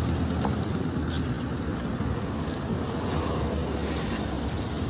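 Steady vehicle noise: engines running and tyres on the road, with a low rumble.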